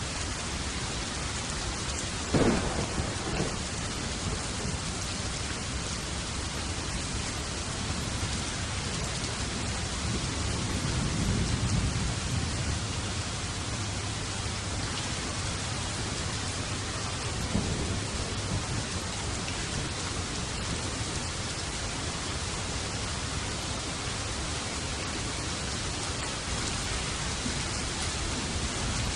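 Steady heavy rain falling, with thunder: a sharp loud crack a couple of seconds in, a low rolling rumble around the middle, and another crack later on.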